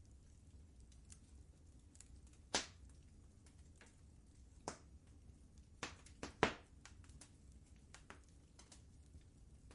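Wood fire crackling in a fireplace: irregular sharp pops and snaps, the loudest cluster a little past the middle, over a faint low rumble.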